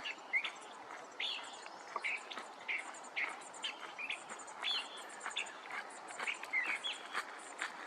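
A flock of bushtits calling: a steady run of short chirping notes, several a second, with thin high twittering above them.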